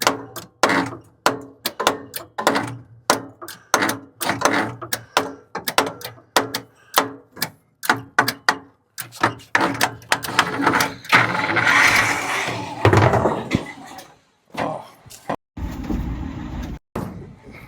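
A hammer repeatedly striking a truck's stuck starter motor: a long run of sharp knocks, two or three a second, with a denser, rougher stretch about ten seconds in.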